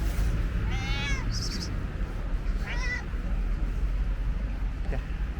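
Stray cat meowing twice, about a second in and again near three seconds, over a steady low rumble.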